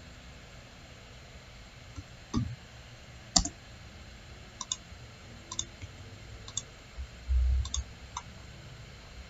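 Computer mouse clicking, single clicks about once a second, over faint room hiss. A dull low thump comes about seven seconds in.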